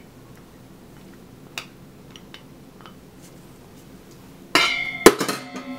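Glass containers clinking and knocking, with a ringing clink about four and a half seconds in and a sharp, louder clink half a second later; before that only a single small click.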